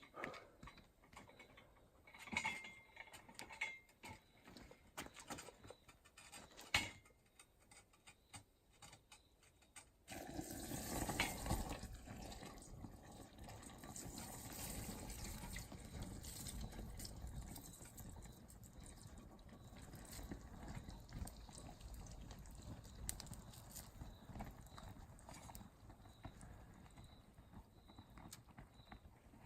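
A few light knocks and clicks, then about ten seconds in a furnace lights with a sudden rush and keeps running with a steady low rushing noise.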